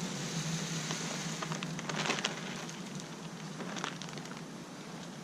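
Black oil sunflower seeds poured out onto the ground, a pattering rush with scattered sharper clicks, busiest about two seconds in and tailing off toward the end. A steady low hum runs underneath.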